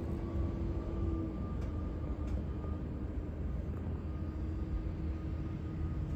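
Jet aircraft engines running: a steady low rumble with a faint whine over it that slowly rises in pitch.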